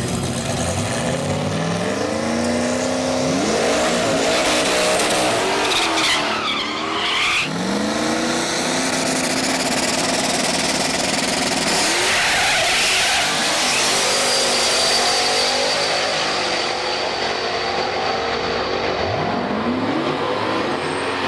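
Drag racing car's engine at full throttle, its pitch climbing again and again as it revs and runs up through the gears, with some tire squeal.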